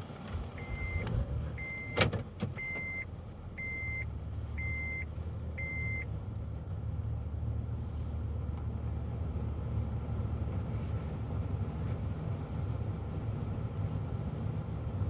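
Six short electronic beeps at one steady pitch, about one a second, with a sharp knock during the second beep. After the beeps a steady low rumble takes over, heard from inside a car going through a car wash.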